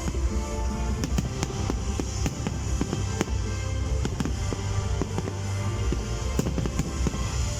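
Fireworks display: many sharp bangs from bursting shells, with show music playing over the rumble.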